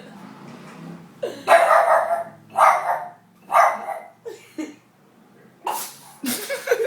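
Pug giving short, harsh barks mixed with reverse sneezes. Three loud ones come about a second apart, then two fainter ones, and after a short pause a quick run of them near the end.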